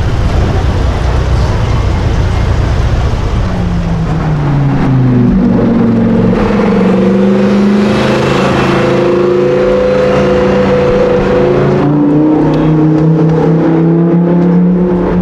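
A sports car's engine running loud, first a low rumble, then a clear engine note whose pitch glides up and dips about four seconds in before holding fairly steady.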